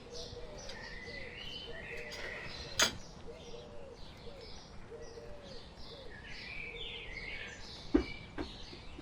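Small birds chirping throughout, over a low call repeated many times in short arched notes. Two sharp knocks cut through, about three seconds in and about eight seconds in, the second the loudest sound.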